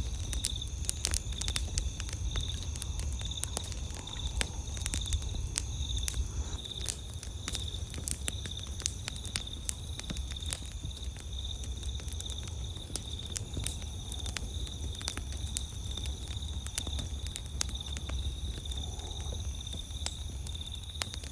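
Wood campfire crackling with frequent sharp pops and snaps, over steady high chirping of crickets and a low rumble.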